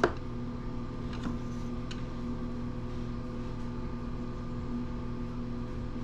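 Steady electrical hum of a workshop appliance, with a sharp click at the start and a couple of faint clicks about a second and two seconds in, from small driver bits being handled.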